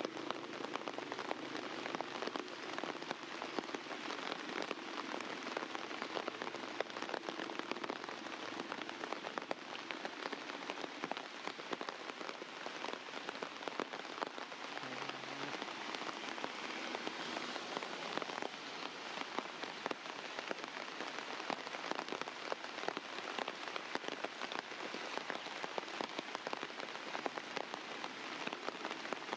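Steady rain falling and pattering on surfaces, a dense spatter of individual drops.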